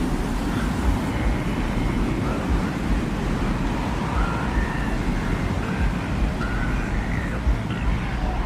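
Steady low desert-wind rumble, with faint short wavering whistle-like tones drifting above it.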